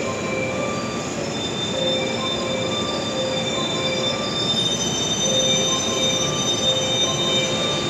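JR West 115-series electric train pulling into a station platform and braking, its brakes squealing in a high steady tone over the rolling noise of the wheels as it slows to a stop.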